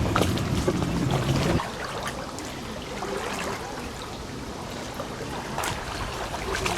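Water lapping and trickling with small splashes at a reservoir's edge. A louder low rumble, like a motor or wind, drops away about a second and a half in.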